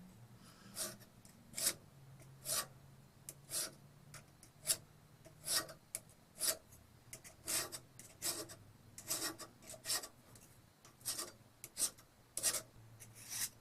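Short rasping strokes of a hand file on the cutting edge of a vintage auger bit, taking burrs off it. About one stroke a second, coming quicker and in pairs in the second half.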